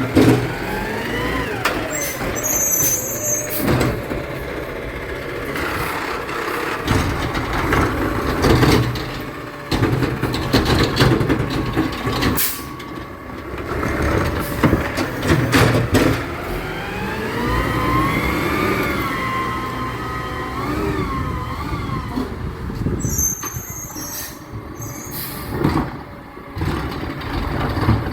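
Garbage truck's diesel engine running, its pitch rising and falling several times as it revs, with two short hisses of air, one a few seconds in and one near the end.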